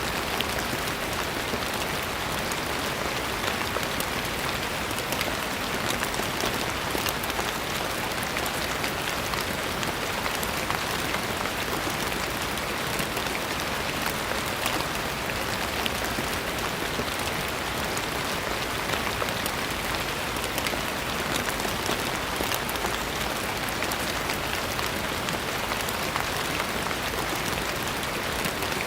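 Steady rain falling, an even hiss of many drops with fine pattering ticks on a surface.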